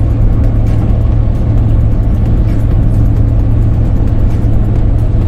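Steady engine and road noise inside a moving truck's cab, a constant low drone.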